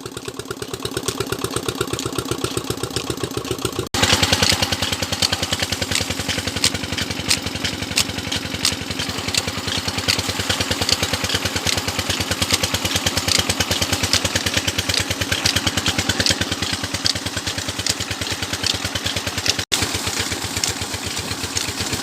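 Diesel engine driving a tube-well pump, running with a steady, even firing beat. It breaks off for an instant about four seconds in and again near the end, and is louder after the first break.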